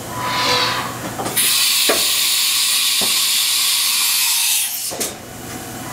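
Compressed air hissing during a tool change on a 1998 Haas HS1RP horizontal machining center: a short mechanical whir, then a loud steady blast of air for about three seconds that cuts off suddenly, with two sharp clicks during it.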